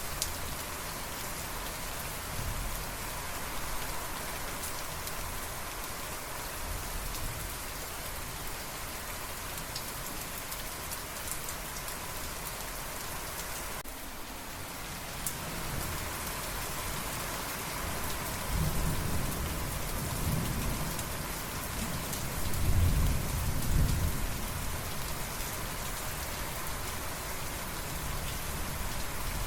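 Steady rain falling and pattering on surfaces, with a low rumble of thunder rising through the second half and peaking a few seconds before the end.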